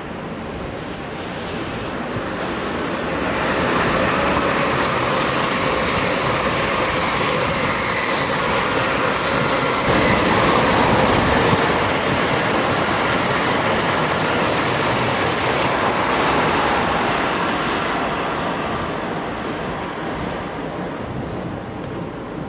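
A train passing the lineside: its rumble builds over the first few seconds, holds loud for a long stretch and fades away near the end.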